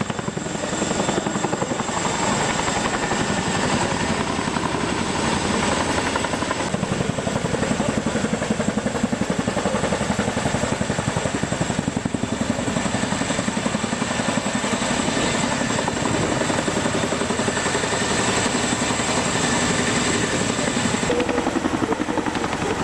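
Helicopter flying close by, its rotor blades chopping rapidly and steadily.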